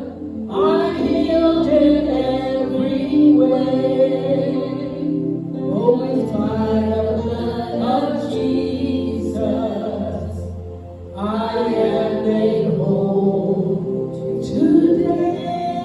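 Gospel song sung by voices over instrumental backing, in slow held phrases with short breaths between them.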